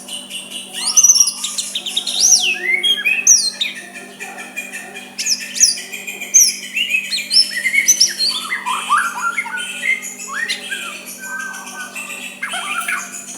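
White-rumped shama singing a varied song of quick whistled notes that sweep up and down, with chirps and harsher notes mixed in, over a faint steady low hum.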